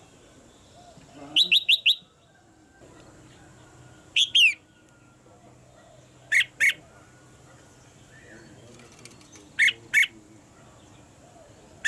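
Red-whiskered bulbul calling in short, high-pitched bursts. A quick run of four notes comes first, then pairs of sharp notes every few seconds.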